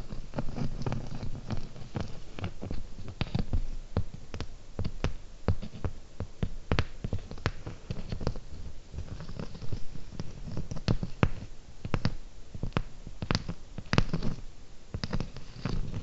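Fingernails tapping with many sharp, irregular clicks, several a second, over a soft low rustle.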